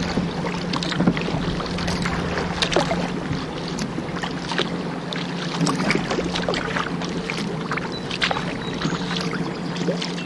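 A kayak on the move: irregular water splashes and drips from paddling over a steady low hum.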